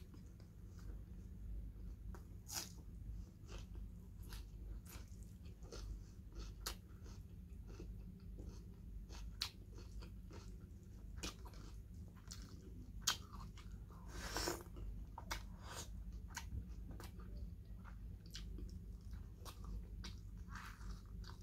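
Close-miked chewing and eating sounds of a person eating pork curry and rice by hand: soft, irregular wet smacks and mouth clicks, over a faint steady low hum.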